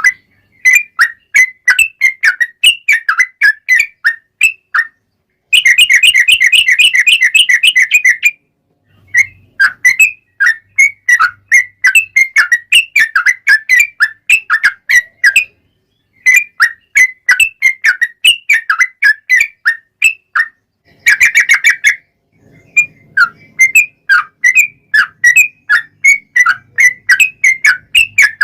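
Yellow-vented bulbul (trucukan) singing loudly in phrases of quick, bubbling chirps, with short pauses between them. Twice, about six seconds in and again about twenty-one seconds in, the song runs into a long, rapid rolling trill, the 'ropel panjang' of a bird in full song.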